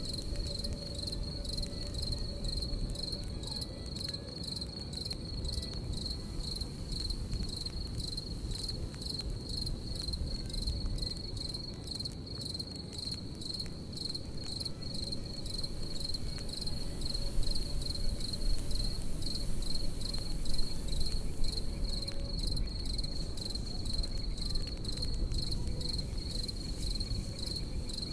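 Crickets chirping in a steady rhythmic pulse over a crackling campfire, with a low rumble beneath. The fire pops louder for a few seconds past the middle.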